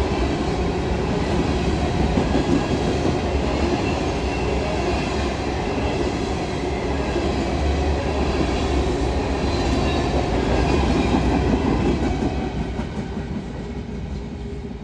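Norfolk Southern freight grain train passing close at speed. Its railcar wheels rumble and clatter steadily over the rails, with faint high squeals, and the sound eases slightly near the end.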